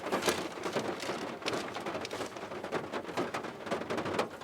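Loud rain falling, with many separate drops striking close by in a dense, steady stream.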